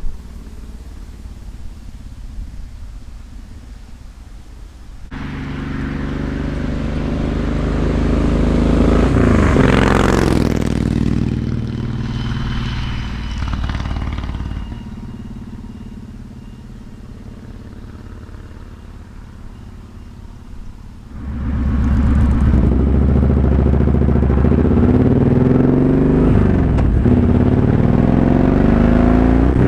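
Kawasaki Vaquero's 1700 cc V-twin through a DanMoto Highwayman 2-into-1 exhaust, riding past the microphone: it builds to a loud pass about ten seconds in, with the pitch bending down as it goes by, and fades away. About two-thirds of the way through it is suddenly loud again, the engine running hard under acceleration.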